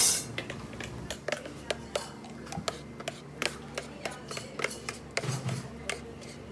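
Café counter work: scattered light clicks, taps and clinks of cups, dishes and utensils being handled, after a brief loud rush of noise at the very start.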